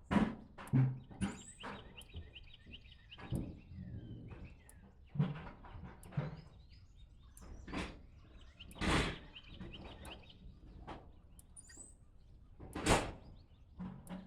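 A songbird singing a fast trill of short repeated notes, twice, over irregular knocks and thuds close by.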